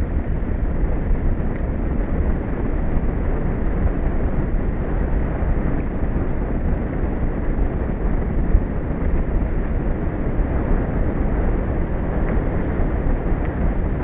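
Steady rushing wind on an outdoor microphone, heaviest in the low end, with no distinct events.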